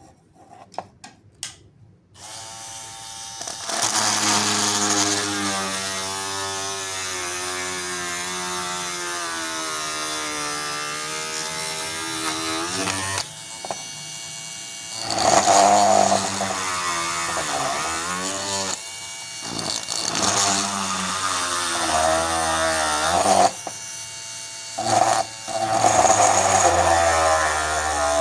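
Homemade drill built on a 775 DC motor starting up about two seconds in after a few handling clicks, then running at high speed with a steady whine. In the second half its pitch repeatedly sags and recovers as it is put under load.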